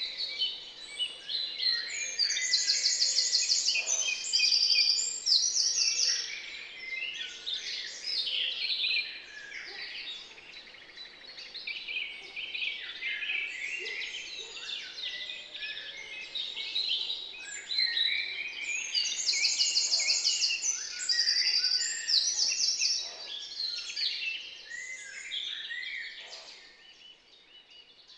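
Garden birds singing, several songs overlapping, with high, rapid trilled phrases loudest about two seconds in and again about twenty seconds in.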